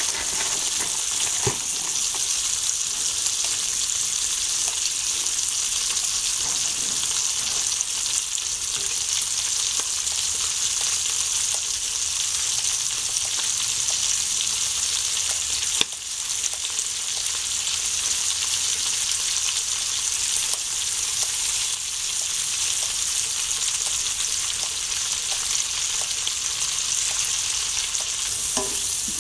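Sliced turkey sausage, bacon and onion sizzling steadily in a stainless steel skillet.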